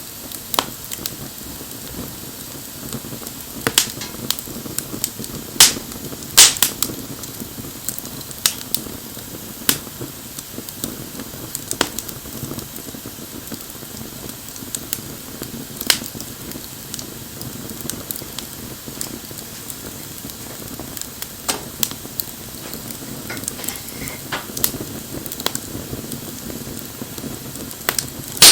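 Wood fire burning, crackling with sharp pops at irregular intervals, a few of them loud, over a steady low rush of flame.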